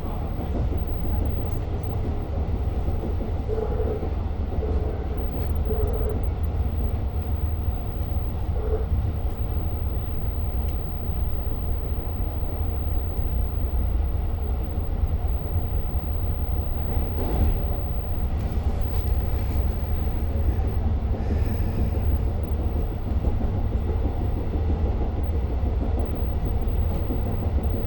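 Long Island Rail Road diesel train running between stations, heard from on board: a steady low rumble of wheels and train with a few faint clicks.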